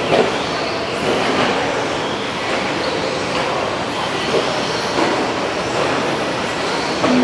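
Several 13.5-turn brushless electric short course RC trucks racing around the track: a steady din of motors and tyres.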